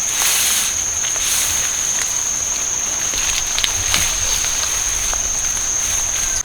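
Insects droning outdoors in one steady, high-pitched tone, with scattered small clicks and rustles over it.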